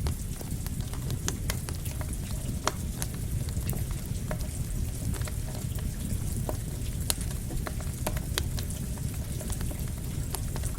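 Campfire crackling, with frequent sharp irregular pops, over a steady hiss of rain and a low rumble.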